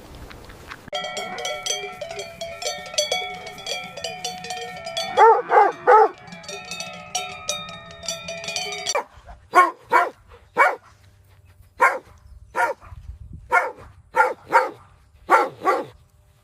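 Dog barking: a quick burst of three barks about five seconds in, then a run of about nine separate short barks, roughly one every two-thirds of a second.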